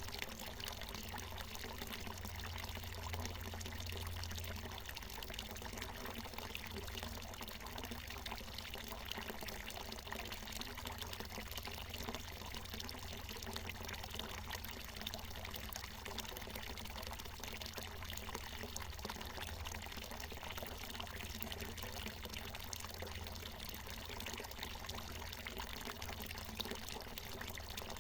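Water from a natural mountain spring falling and splashing steadily, with a continuous pouring sound.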